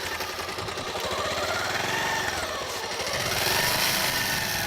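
Bajaj Pulsar 150's single-cylinder four-stroke engine running under way, its note rising and falling as the revs change.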